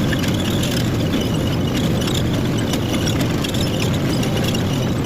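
Tractor engine running steadily under load while ploughing, a constant rumble.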